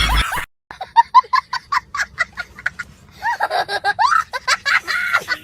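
A person laughing: a run of short repeated bursts after a brief break near the start, then longer, drawn-out laughter.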